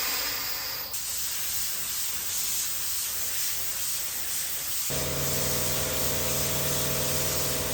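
Air spray gun spraying epoxy primer onto starter parts: a steady, loud hiss of air and atomised paint. About five seconds in, a steady low hum joins it.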